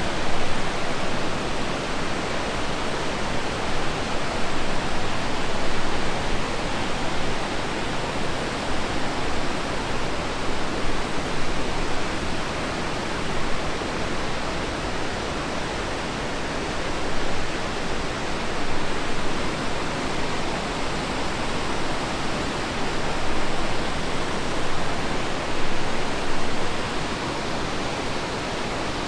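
Rushing water, a steady dense rush that does not let up.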